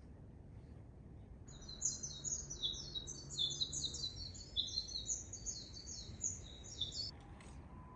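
Small birds chirping in a fast, dense run of high, short notes that starts about a second and a half in and stops near the end.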